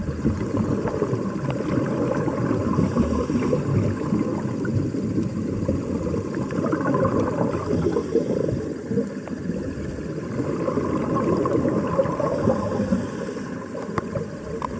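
Air bubbles streaming and gurgling underwater, a steady dense bubbling such as the air escaping from a diving helmet.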